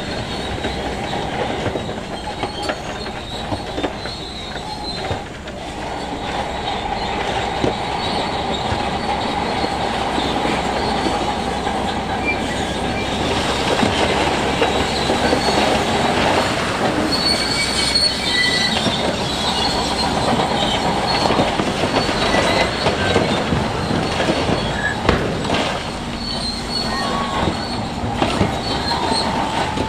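Shantui crawler bulldozer working, its steel tracks squealing and clanking over the engine's steady running. The sound holds loud and continuous, with high squeals coming and going.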